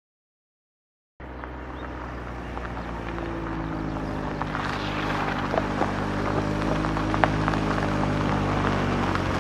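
A motor vehicle's engine running steadily, starting about a second in and growing slowly louder, with a few faint clicks over it.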